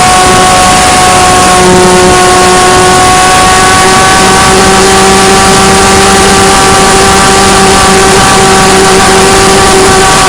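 Radio-controlled plane's motor and propeller buzzing at a steady, nearly constant pitch under a loud rush of wind noise, as picked up by a camera riding on the plane in flight.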